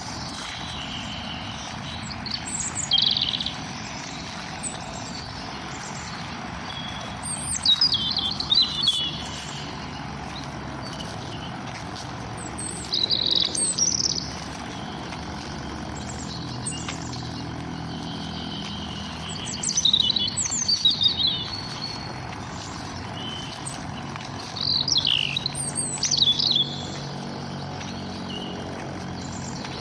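Birds singing: short bursts of quick high chirps and trills every few seconds over a steady outdoor background hiss.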